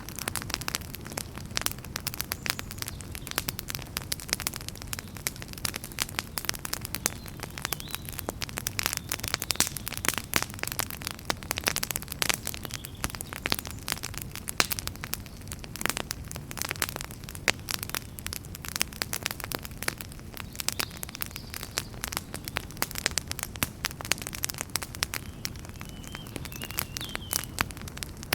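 Wood fire in a fireplace crackling continuously, with dense irregular snaps and pops over a steady low rumble of flame.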